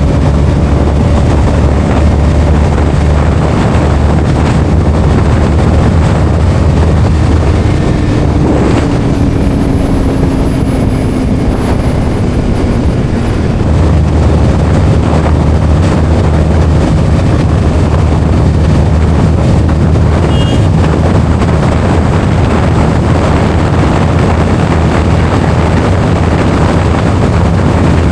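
Motorcycle riding at speed, with wind rushing over the helmet-mounted microphone over the low drone of the Bajaj Pulsar NS200's single-cylinder engine. The engine eases off for a few seconds about a third of the way in, then picks up again.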